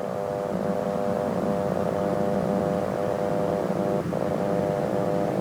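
Aircraft engines humming steadily at an even pitch, with a brief dip about four seconds in.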